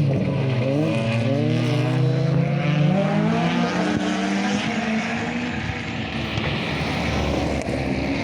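Rally car engine accelerating hard up through several gears, its note climbing and dropping back at each shift, then fading out about five seconds in as the car goes away.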